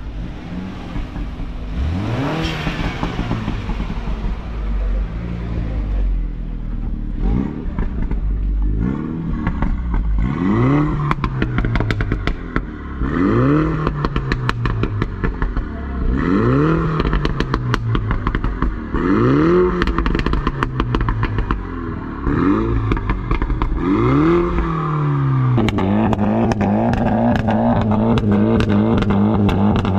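A car engine revved hard again and again, about eight blips two to three seconds apart, each rising sharply in pitch and falling back, with many sharp crackles in between. From about 26 seconds in it holds a steady raised engine note.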